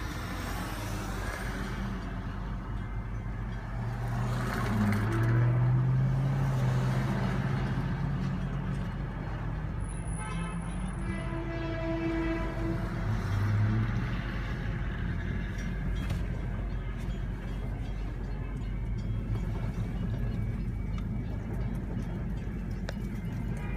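Long Island Rail Road M7 electric train running past with a steady rumble. Its horn sounds twice, one long blast about four seconds in and a shorter one about eleven seconds in.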